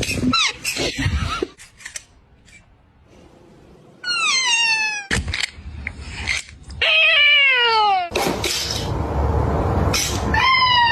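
Cats meowing: three drawn-out meows, each falling in pitch, with scattered clicks and knocks near the start and a stretch of hissing noise between the second and third meow.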